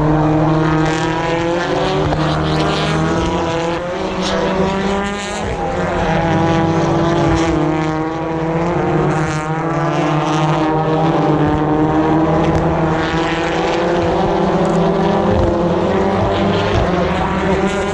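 Several British Touring Car Championship race cars with 2-litre turbocharged four-cylinder engines running at high revs past the trackside, their engine notes overlapping continuously and wavering in pitch.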